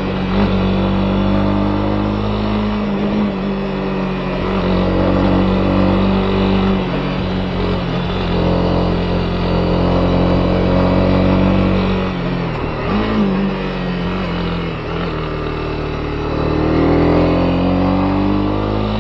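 Honda CB250R's single-cylinder engine running as the motorcycle is ridden, the revs easing off and picking up with the throttle and climbing near the end.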